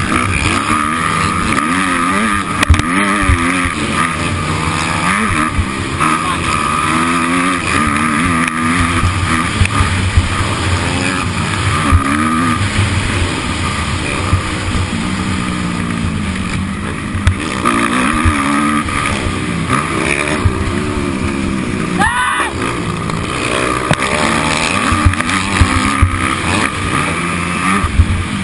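Motocross dirt bike engine revving hard, its pitch rising and falling again and again as the throttle opens and closes, with frequent low thumps. About 22 seconds in, a sharp rising whine is heard.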